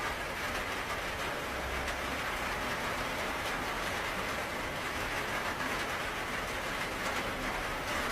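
Steady rain falling, an even hiss with a faint low rumble beneath it.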